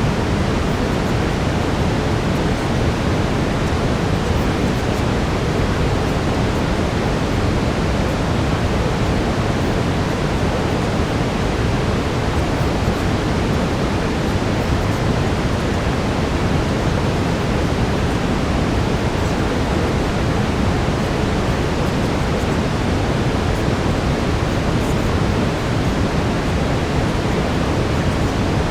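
Steady brown noise: an even, unchanging low rushing hiss, heavier in the bass. No speech can be heard over it.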